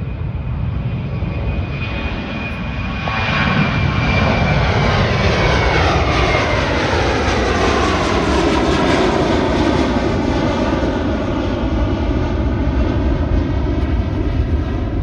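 Spirit Airlines Airbus A321 jet engines at takeoff power. The noise grows louder about three to four seconds in and stays loud as the plane passes, with tones that slide down in pitch.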